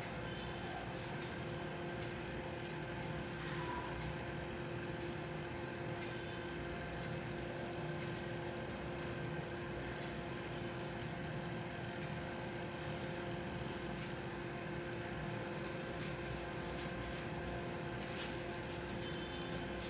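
Steady mechanical hum with several held tones, and a few faint clicks scattered through it.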